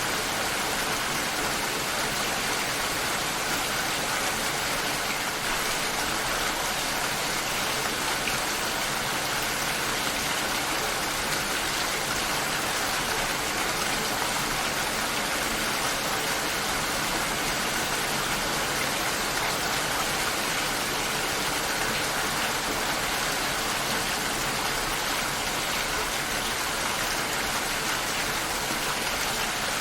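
Steady rain shower, an even hiss of rain falling and pattering on surfaces.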